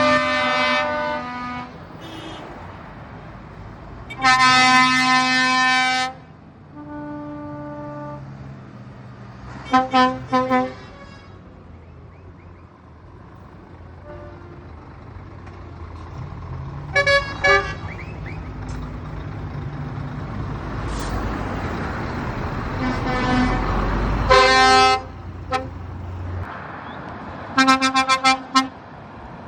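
Trucks' air horns sounding repeatedly: a long blast about four seconds in and bursts of short toots around ten seconds, seventeen seconds and near the end. Under them a diesel truck engine rumbles, growing louder as it passes close about three-quarters of the way through.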